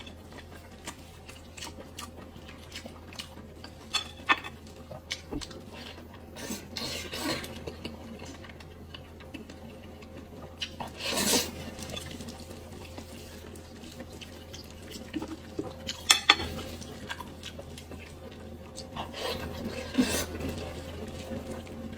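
Scattered clinks and knocks of cutlery against dishes, a few of them sharp and loud, over a steady low hum.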